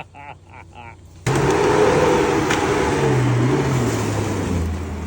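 Off-road vehicle's engine revving hard, with a loud rushing noise over it, starting suddenly about a second in; the engine pitch falls near the end.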